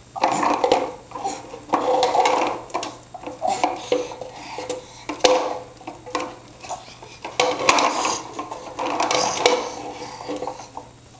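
Toy dump truck clattering and knocking, with repeated irregular knocks and rattles as it is pushed and handled on hard surfaces in a small, echoing room.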